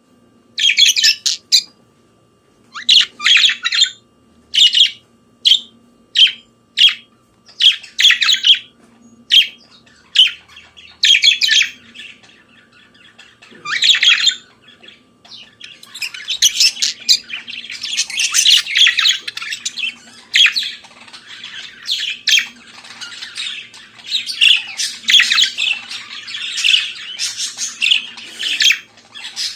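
Budgerigar calling: short, separate squawky chirps in the first half, turning about halfway through into a near-continuous warbling chatter.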